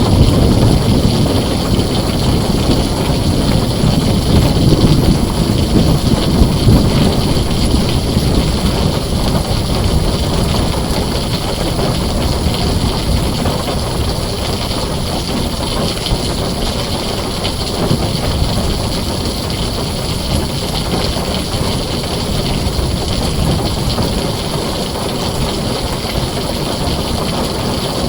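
Heavy rain drumming on a tin roof, with a low rumble of thunder that is strongest in the first several seconds and slowly fades.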